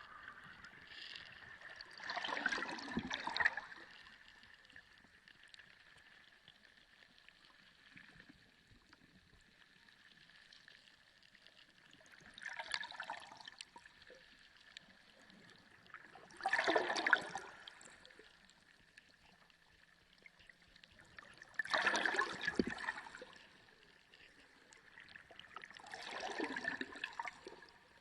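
Sea water heard underwater: five separate whooshing surges of water, each about a second long, a few seconds apart, over a faint steady wash with a thin constant tone.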